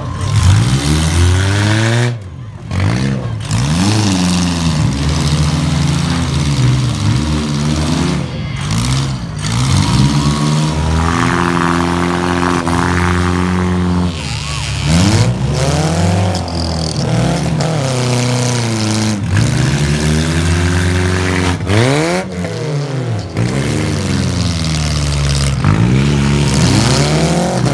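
Demolition derby car engines revving hard again and again, the pitch climbing and dropping many times in quick succession.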